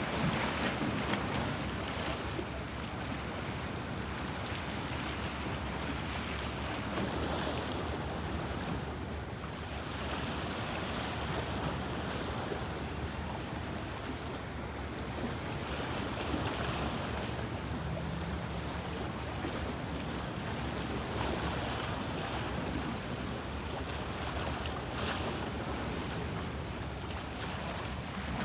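Sea waves washing against the shore of the Bosphorus, a steady rush that rises and falls every few seconds.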